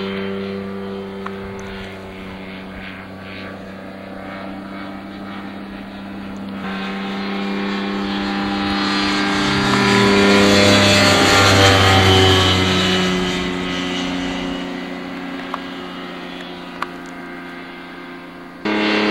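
Light airplane's engine and propeller running in flight. The sound grows louder to a peak about halfway through, then fades, with sudden jumps in the sound about a third of the way in and again near the end.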